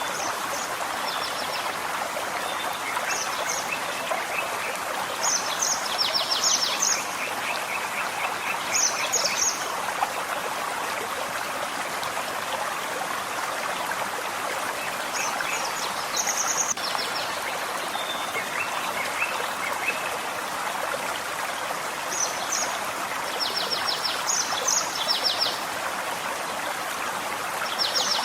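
Forest stream running with a steady rushing, while small birds call over it in short high chirps and rapid trills that come and go every few seconds, clustering around a quarter of the way in and again in the last third.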